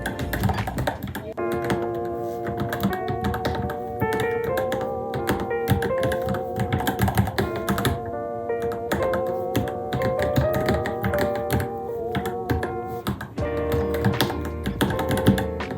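Fast, uneven typing on a Varmilo Minilo mechanical keyboard, a quick stream of key clicks, over background music with a melody.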